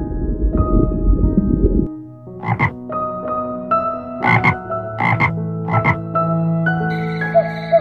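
Tree frog croaking: short, rasping croaks, mostly in quick pairs, four times starting about two seconds in, over soft background music. Before the croaks, a low rushing underwater water noise.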